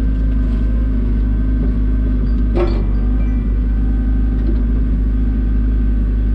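Excavator's diesel engine running steadily at a constant speed, with a short metallic clatter about two and a half seconds in.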